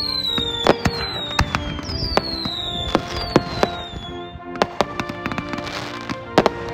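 Fireworks going off: sharp bangs and pops throughout, four whistles falling in pitch about a second apart in the first half, and a denser spell of crackling about three quarters through, with music playing underneath.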